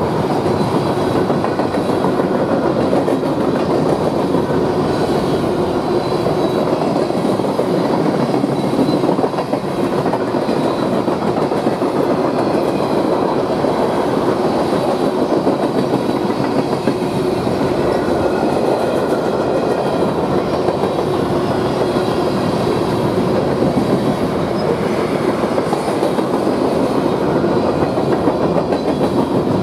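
Freight cars of a BNSF manifest train rolling past at steady speed: a continuous rumble and rattle of steel wheels on rail, with faint ringing tones above it.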